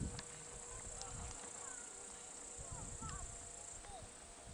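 Faint, steady ringing of Tibetan singing bowls, several held tones sounding together, with short chirps and a few soft low thumps over them.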